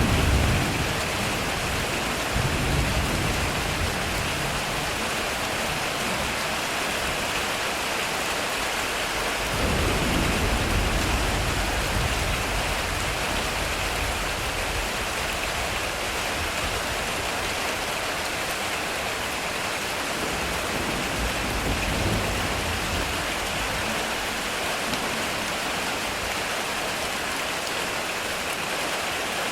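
Heavy rain drumming steadily on a metal roof, with low rolls of thunder. The loudest roll comes right at the start, a longer one about ten seconds in, and a fainter one a little past twenty seconds.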